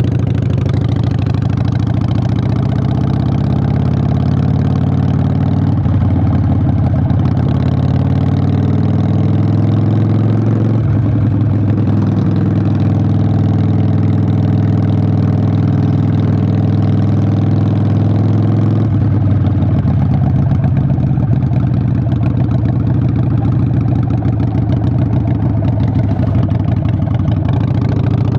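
Harley-Davidson Sportster 883's air-cooled V-twin running loud through Vance & Hines Short Shots exhaust under way. The engine note climbs under throttle and drops sharply at gear shifts about eleven and nineteen seconds in.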